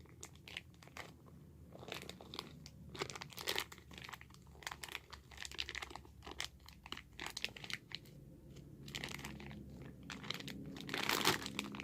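Slime being handled in a plastic bag: soft, irregular crinkling and crackling of the plastic with small clicks, getting busier near the end.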